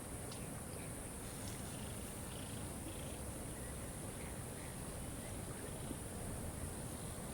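Steady rushing of a waterfall, with a constant high hiss above it and a few faint, short bird chirps in the first half.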